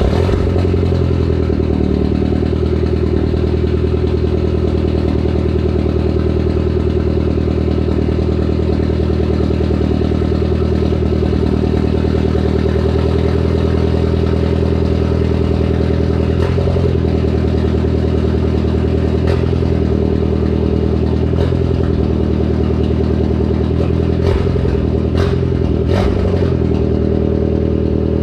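Mini Cooper S Coupe's 1.6-litre turbocharged four-cylinder idling steadily just after a cold start, through a straight-piped exhaust with a cat-deleted downpipe. A few faint clicks come in the last third.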